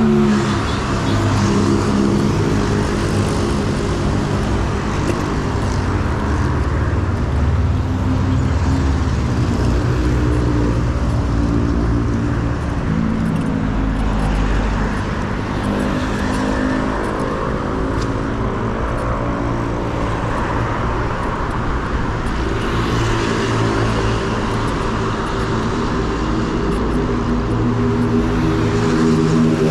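Road traffic heard from a bicycle on a busy avenue: car and bus engines running close by, over steady road and wind noise.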